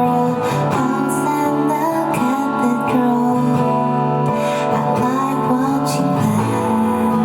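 Live song performance: acoustic guitar strumming chords, with a female voice singing the melody.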